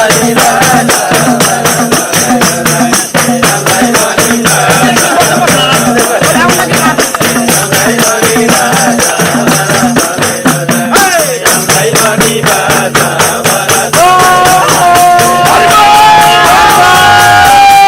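A group singing a Nepali folk song over fast, steady jingling percussion like a tambourine. About fourteen seconds in, the music turns to long held notes.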